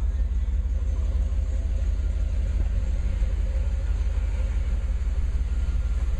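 1992 Pontiac Trans Am's V8 engine idling, a steady low exhaust rumble.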